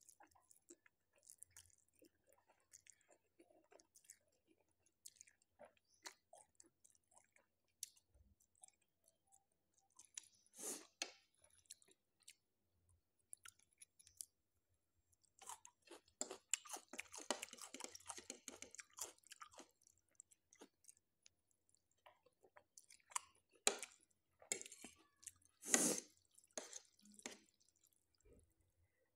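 Faint close-miked mouth sounds of eating spicy Korean instant noodles: chewing and slurping, with scattered wet clicks and a busier stretch about halfway through.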